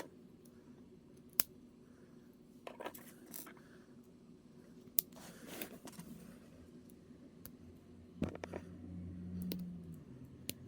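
Small plastic parts of a snap-together Blokees figure being handled and pressed together: a few sharp clicks with short bouts of rustling, and a brief low hum near the end.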